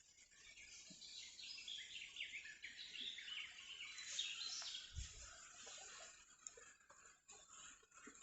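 Faint birdsong: a quick run of short, high, downward-sliding chirps, thickest through the middle, with a soft low thump about five seconds in.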